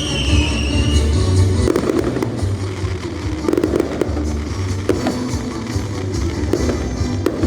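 Fireworks going off: a high whistle fades out about a second in, then a string of bangs and crackling bursts plays over a steady low rumble.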